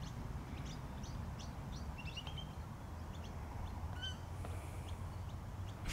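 Faint, scattered short bird chirps over a steady low outdoor rumble.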